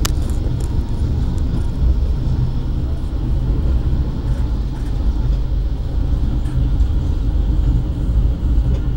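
Steady low rumble of the Argo Wilis passenger train running at speed, heard from inside the coach, with a sharp click right at the start.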